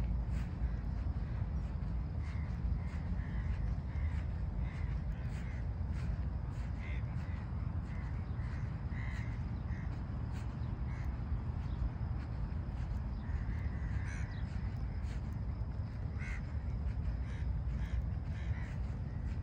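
Birds calling over and over in short calls, about one every second or so, with a cluster of them near the middle, over a steady low rumble.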